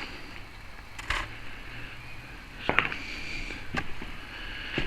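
Footsteps walking on a hard floor: a few sharp scuffs or steps roughly a second apart, over a faint steady hiss.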